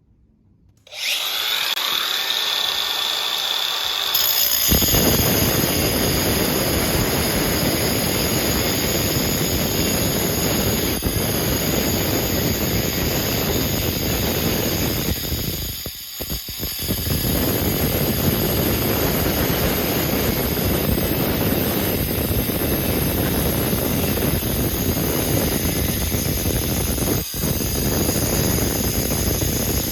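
A power tool running continuously with a high-pitched whine, turning louder and harsher about four seconds in and easing off briefly near the middle.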